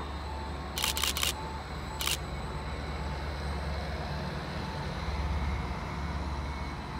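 Greater Anglia Class 755 bi-mode multiple unit running past with a steady low rumble. Its wheels click sharply over rail joints: a quick run of four clicks about a second in, then one more at about two seconds.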